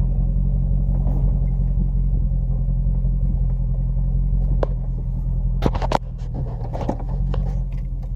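Dodge Ram pickup's engine running with a steady low rumble, its sound shifting slightly about three-quarters of the way through. A few sharp clicks and knocks come in the second half.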